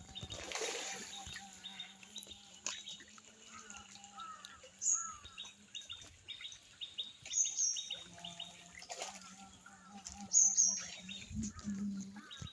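Birds chirping and calling: many short repeated notes, with a few louder, sharp, high falling calls a few seconds apart. A faint steady low hum runs underneath.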